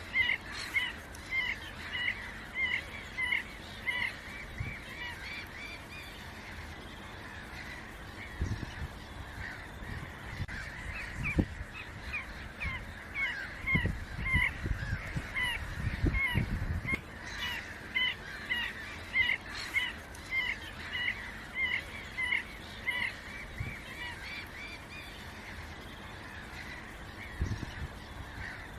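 A flock of waterfowl calling: short, honking calls repeated several times a second without a break, with low rumbles near the middle.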